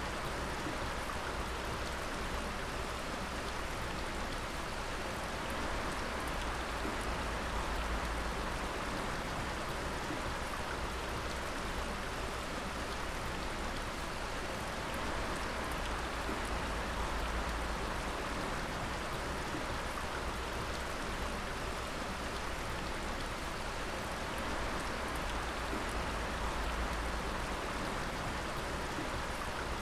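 Water dripping steadily, many drops pattering at once so that it sounds much like rain.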